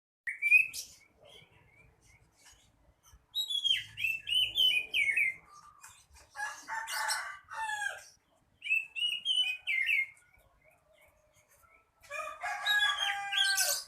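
Oriental magpie-robin (kacer) singing in separate phrases of quick chirps and whistled notes, with fuller, harsher phrases near the middle and at the end.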